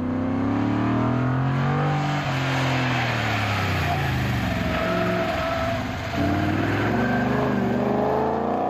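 Car engine under hard acceleration and lifting off on an autocross course, its pitch climbing and falling several times. There is a short drop in loudness about two-thirds of the way through before it pulls again.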